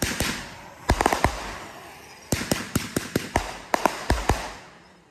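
Fireworks going off: sharp bangs in quick bunches of three or four, with crackle between them, fading away near the end.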